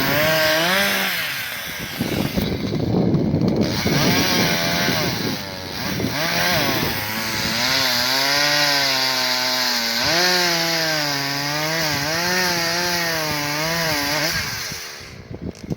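Two-stroke chainsaw cutting into a pine trunk, its engine pitch rising and dipping again and again as the chain bites into the wood. It runs loud and cuts off about fifteen seconds in.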